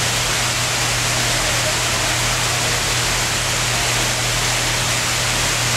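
Heavy rain pouring down: a steady, even hiss, with a steady low hum underneath.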